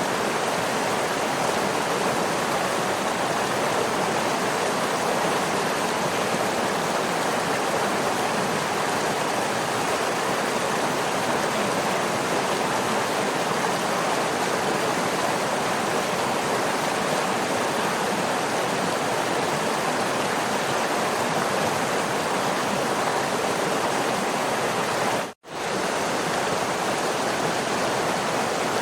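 Waterfall rushing in a steady, even roar of falling water. It cuts out for a split second about 25 seconds in, then resumes unchanged.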